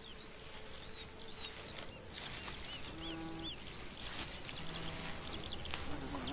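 Field ambience with small birds giving short, high chirps throughout, and a short low tone about three seconds in.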